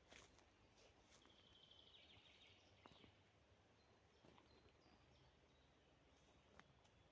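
Near silence: faint forest ambience, with a distant bird trilling briefly about a second in and a few soft clicks.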